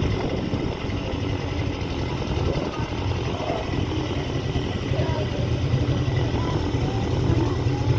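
A small boat engine running steadily at low speed, with a constant low drone.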